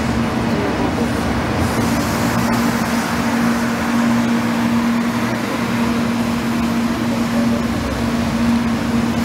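Shinkansen 300 series bullet train rolling past at low speed: a steady running noise with a steady low hum.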